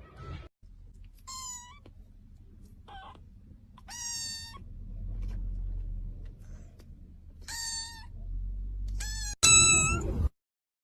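A cat meowing six times in high-pitched calls, a few short and a few drawn out, the loudest one near the end cutting off abruptly.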